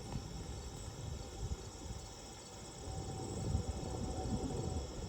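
Steady high-pitched chorus of insects, over an irregular low rumbling noise.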